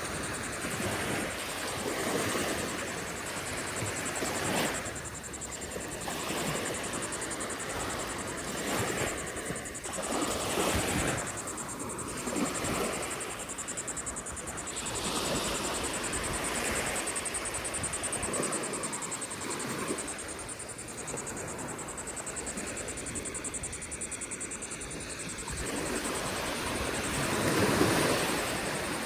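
Ocean surf breaking and washing up the beach, a steady rush that swells and ebbs every few seconds, with a louder wave near the end.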